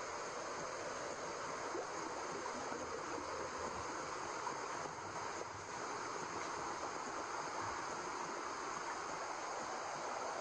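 Steady white noise for lulling a baby to sleep: an even hiss with no beat or pulse, holding the same level throughout.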